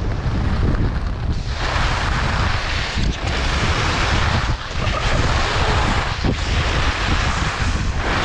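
Wind buffeting the microphone during a fast downhill run, a heavy rumble with a loud hiss over it that starts about a second and a half in and breaks off briefly three times.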